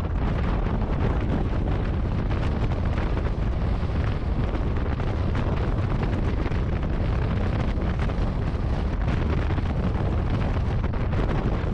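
Wind buffeting the microphone over the steady rumble and rattle of a moving passenger train running on the track, heard from outside the coach doorway.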